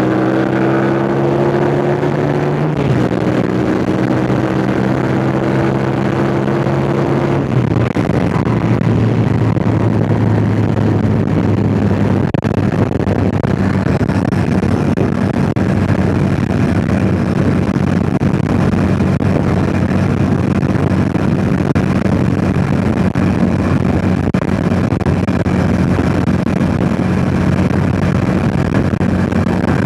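Yamaha MT-07's parallel-twin engine running under way, stepping down in pitch twice in the first eight seconds and then holding a steady note. Wind rushes on the microphone throughout.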